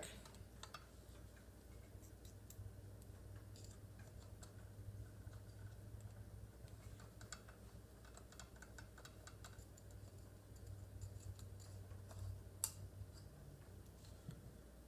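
Faint, scattered light clicks from small metal parts being handled as the ends of the Chicago screws are fitted through the shotgun's receiver, with one sharper click about two-thirds of the way through, over a low steady hum.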